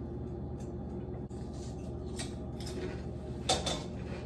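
A steady low mechanical hum with a few faint light clinks and knocks, like kitchen things being handled.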